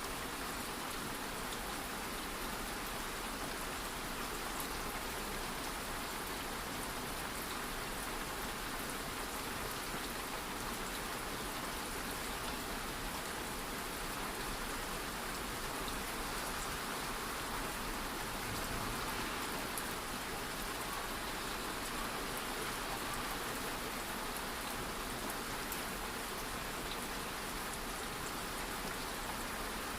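Steady light rain falling on a surface, an even hiss with scattered small drop ticks.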